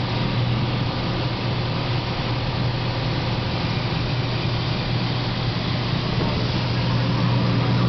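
Cessna 182T's six-cylinder Lycoming engine and propeller running as a steady low drone, growing slightly louder near the end.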